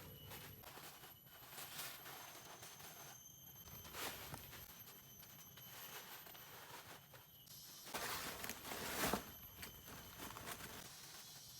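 Dry teak leaves and leaf litter rustling and crunching in irregular bursts as they are handled and stepped on, loudest about 4 seconds in and again around 8 to 9 seconds.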